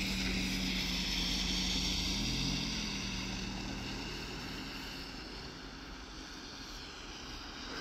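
Amtrak passenger train approaching in the distance: a steady locomotive engine drone with a hum, louder for the first few seconds, then easing off.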